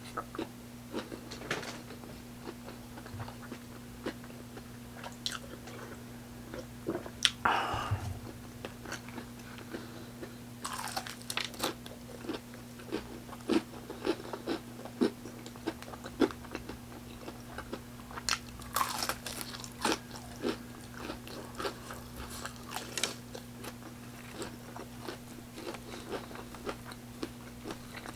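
Close-miked eating: crisp fried chicken crust crunching in bites, with wet chewing and smacking clicks in between; the loudest crunches come in a few bursts, about seven, eleven and nineteen seconds in. A steady low hum runs underneath.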